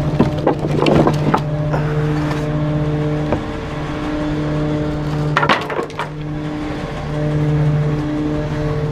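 Garbage truck packer crushing bulky waste: a steady hydraulic drone with clusters of cracking and breaking in the first second or so and again about five and a half seconds in.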